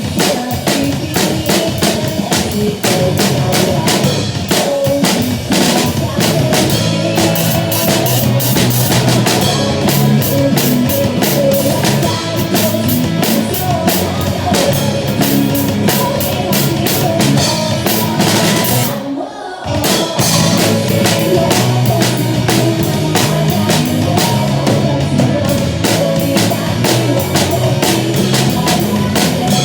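Drum kit played along to a rock-style backing track, with steady kick and snare, and a brief stop about two-thirds of the way through.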